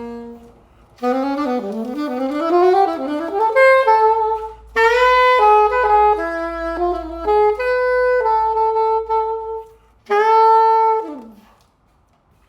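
Buffet R13 clarinet played solo as a play test after a tenon repair: quick runs up and down, then phrases of held notes, ending on a note that slides down and stops.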